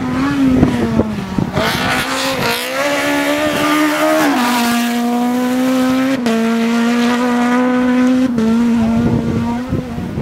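Race car engine held at high, steady revs, its pitch stepping slightly a few times.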